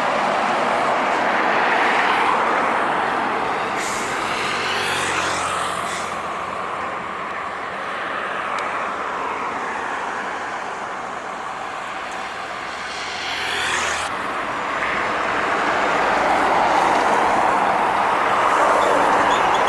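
Trucks and other traffic passing on a highway: tyre and engine noise swelling and fading as each vehicle goes by. The pitch drops as vehicles pass close, about four seconds in and again near thirteen seconds. A low engine drone runs between those two passes.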